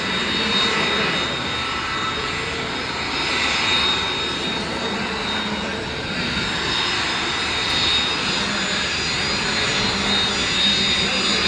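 Aircraft engines running steadily: a continuous rushing noise with a steady high whine over it.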